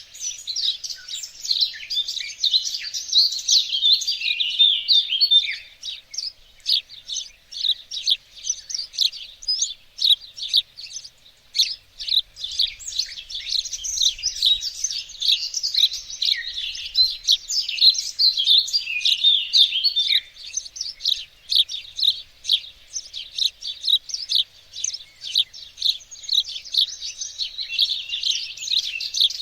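Songbirds chirping and singing in a dense chorus of quick, high, overlapping notes, with brief lulls about six and twenty-one seconds in.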